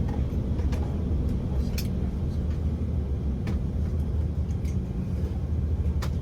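Steady low rumble inside the cabin of an Airbus A330-300 on the ground after landing, with a few sharp clicks and rattles.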